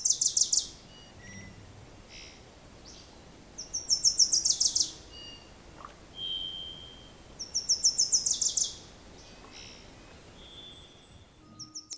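A songbird singing a rapid trill of about eight to ten high notes, repeated three times about four seconds apart, with a few faint short chirps from other birds in between.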